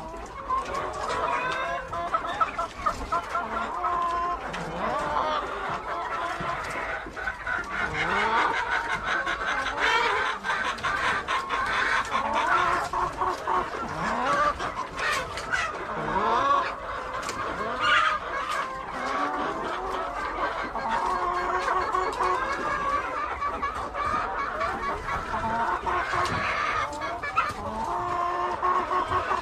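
A flock of laying hens clucking, with many short calls overlapping throughout and a few sharp clicks scattered among them.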